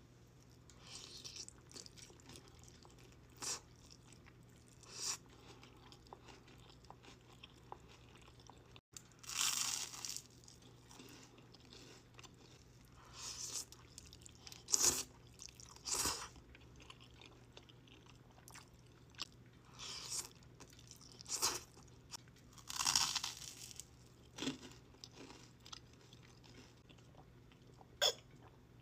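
Close-miked eating sounds: a person biting and chewing, with irregular crunches and wet smacks spaced a second or more apart, over a faint steady hum.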